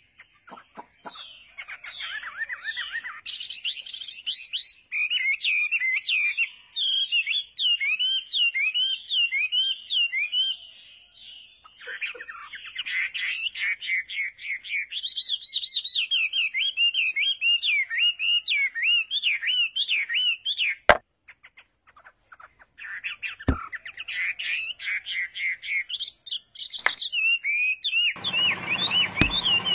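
Small birds chirping in quick, repeated rising-and-falling calls, with a few sharp clicks in the last third and a rushing noise near the end.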